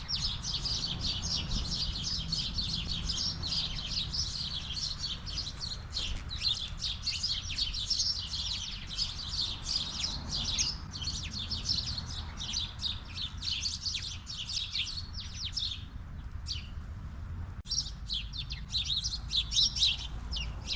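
A flock of sparrows chirping constantly, many calls overlapping, with a short lull about sixteen seconds in before the chirping picks up again.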